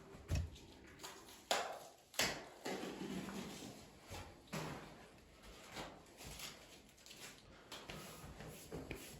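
Masking tape being peeled off a freshly painted wooden beam: a series of ripping pulls, some sharp and some drawn out, with crinkling between.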